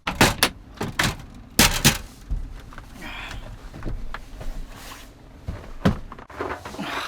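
Several sharp knocks and thuds, most of them in the first two seconds and one more near six seconds, with softer rustling between.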